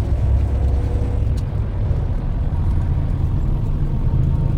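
Truck running with a steady low engine and road rumble.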